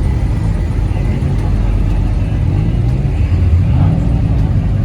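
Car engine running, its low pitch rising and falling a few times.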